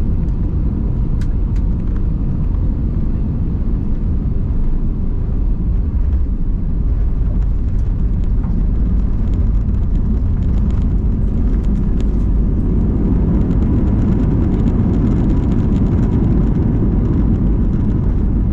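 Airbus A320 cabin noise just after landing: a steady, loud low rumble of the engines and airflow heard inside the cabin, with faint clicks and rattles over it.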